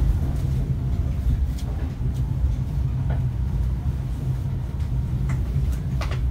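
Steady low rumble of the Bengawan passenger train, with a few short clanks or clicks scattered through it.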